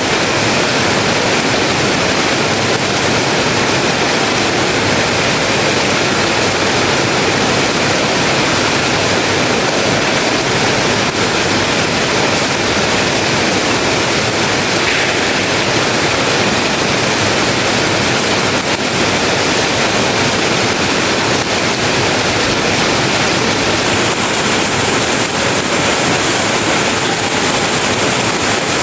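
Heavy rain falling in a loud, steady hiss.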